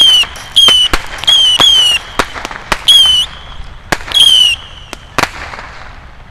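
Whistling fireworks going off in a rapid series: about half a dozen short, high whistles, each dipping slightly in pitch, alternating with sharp cracks, dying away after about five seconds.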